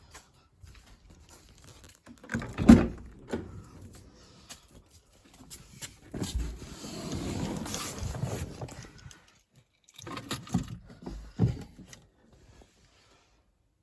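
Irregular handling noises: knocks and rustling, with a sharp thump about three seconds in, a longer rustle in the middle and two more knocks near the end. No engine is running.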